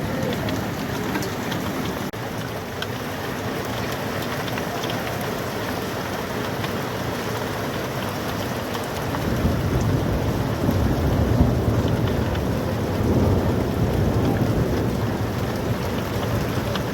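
Heavy rain with hail falling, a steady hiss of downpour dotted with the small sharp ticks of hailstones striking surfaces. About halfway through a deep rumble swells up under it and stays.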